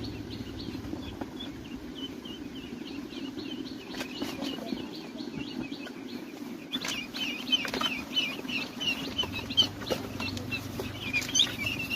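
Birds chirping in quick, repeated high notes over a steady low din, with a few short knocks or wing flaps.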